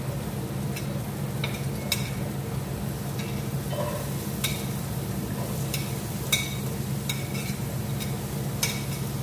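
Chopped onion and garlic sizzling as they are scraped into hot oil in pots on a gas stove, with a metal ladle clinking irregularly against the plate and pot rims. A steady low hum runs underneath.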